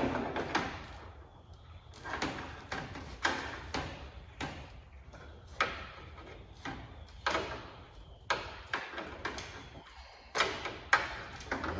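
Irregular sharp plastic clicks and knocks as old light housings and their bulb sockets are twisted and pulled out of a truck's front end.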